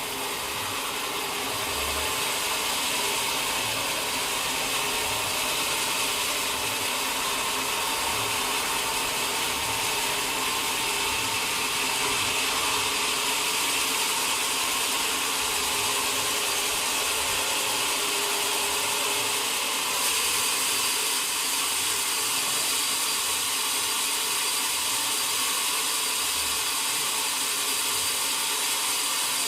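Sawmill machinery running steadily, a continuous hiss-like din at an even level.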